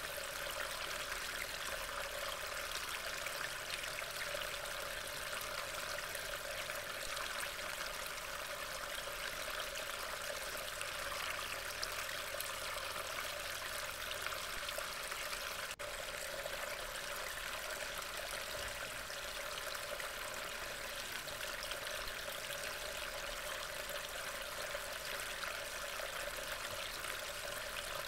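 Steady rain hiss picked up by a trail camera's small microphone, with a momentary break about sixteen seconds in.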